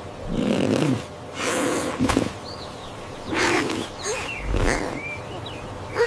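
A series of about four short animal vocal sounds, with faint high chirps in between.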